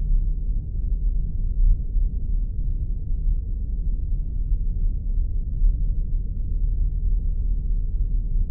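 Spaceship ambience sound effect: a steady deep rumble with all its weight in the bass and nothing high above it.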